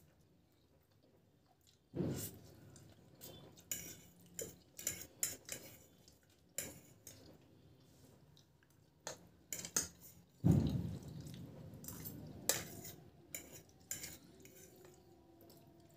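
Metal forks clinking and scraping against plates as noodles are scooped and twirled, in many short, irregular clicks. Two louder, duller thumps come about two seconds in and about ten seconds in.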